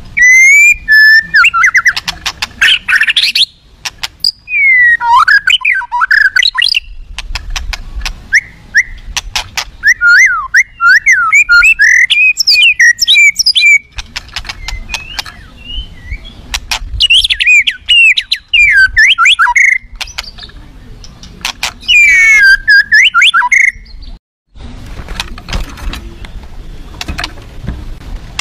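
White-rumped shama singing loudly in bursts of fast, varied whistled phrases with short pauses between them. Near the end the song stops, leaving scattered sharp clicks.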